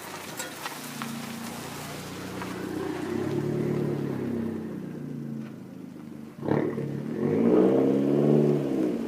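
2013 Fiat 500 Abarth's turbocharged 1.4-litre four-cylinder engine and exhaust accelerating. The engine note climbs and eases, then there is a sharp crack about six seconds in, followed by a loud rev that rises and then drops near the end.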